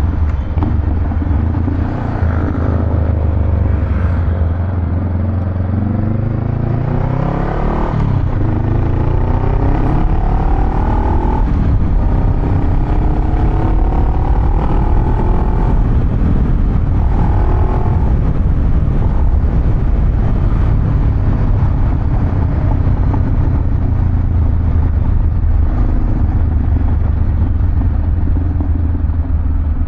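Honda Rebel 500's parallel-twin engine through a Vance & Hines aftermarket exhaust, with a deep rumble. Its pitch rises about seven seconds in and keeps climbing and falling over the next ten seconds as it is revved, then it settles back to a steady low rumble.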